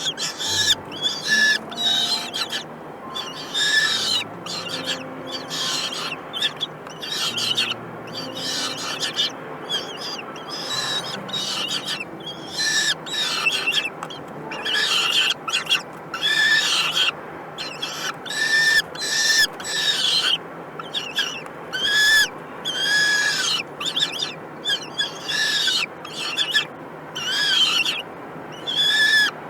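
Falcon chicks in the nest giving repeated short, raspy begging calls in quick runs with brief pauses.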